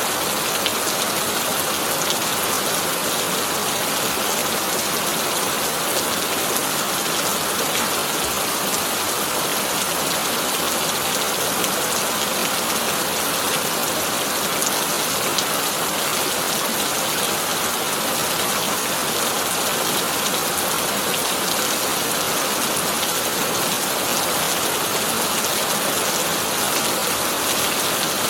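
Heavy rain falling steadily on a corrugated tin roof, a dense even patter with no thunder.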